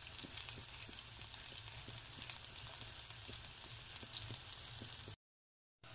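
Diced pancetta with onion and garlic sizzling steadily in hot olive oil in a frying pan, with small crackles, as the pancetta browns. The sound cuts off suddenly near the end.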